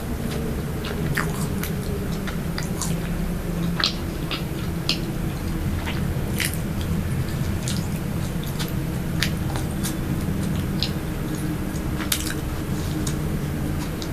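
Close-miked biting and chewing of soft baked snacks, with scattered short mouth clicks over a steady low hum.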